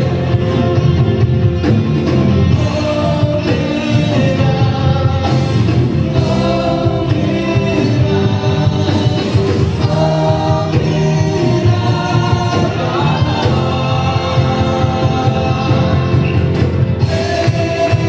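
A church worship band playing a contemporary worship song with singing, with a steady beat throughout.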